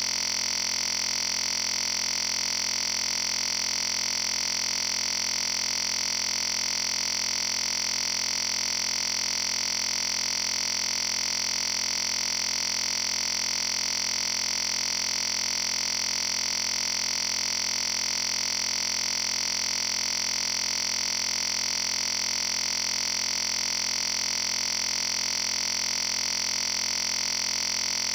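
Steady, unchanging electronic noise: a high hiss with a hum under it, holding the same level and pitch throughout with no other sound. It is typical of an audio feed carrying only line noise.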